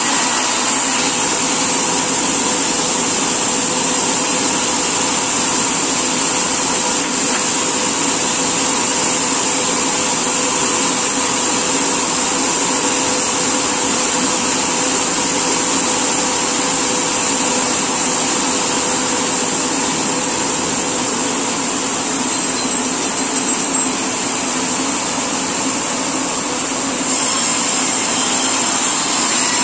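Sawmill saw machinery running steadily with a constant whine.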